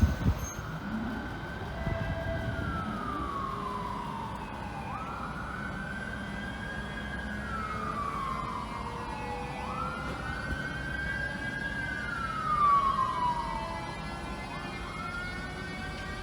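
A siren wailing in slow cycles, each one jumping up in pitch, holding, then sliding slowly down, about every four seconds, over a low steady rumble.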